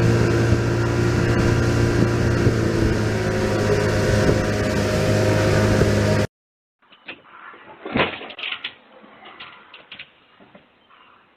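A steady motor drone, cut off abruptly about six seconds in. After it, much quieter scattered small noises, with one sharp knock about two seconds after the cut-off.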